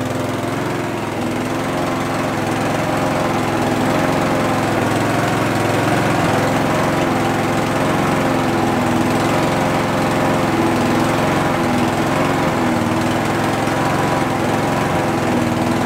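Homelite V35 lawnmower engine running at a steady speed, its pitch rising and falling a little now and then: only a slight surge left, which the owner puts down to the air filter.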